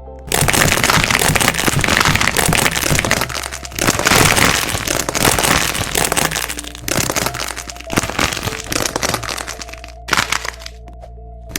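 Wax coating on squishy toys being squeezed and cracked: a dense crackling that thins out to separate cracks after about seven seconds and dies down near the end.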